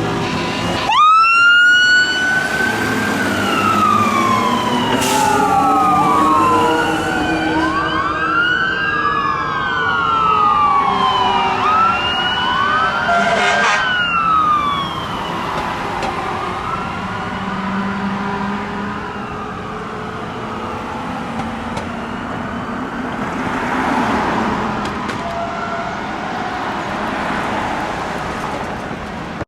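Fire apparatus sirens wailing, rising and falling in pitch as the units pass. The first starts sharply about a second in, two overlap around the middle, and they fade toward the end.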